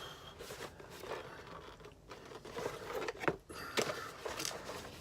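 Cardboard toy boxes and packaging being handled: irregular crinkling and scraping with a few sharp clicks and knocks, two of them sharper past the middle.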